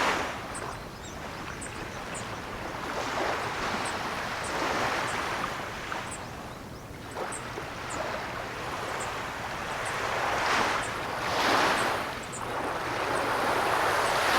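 Ocean surf: waves breaking and washing in, swelling and ebbing every few seconds, with the biggest surges near the middle and end.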